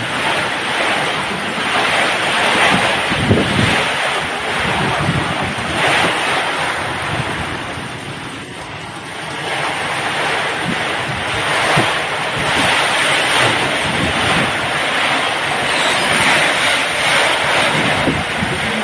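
Heavy rain pouring down, a loud steady hiss that swells and eases, dipping briefly about halfway through.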